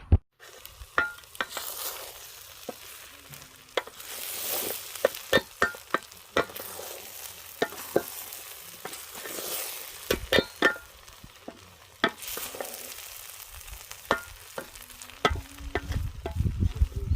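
Food frying in a pot, a steady sizzle that swells and fades, with a metal spoon knocking and scraping against the pot many times as it is stirred. A low rumbling comes in near the end.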